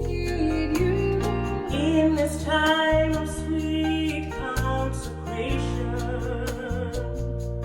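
Live gospel worship music: female voices singing a slow melody over a band with electric bass guitar and a steady beat.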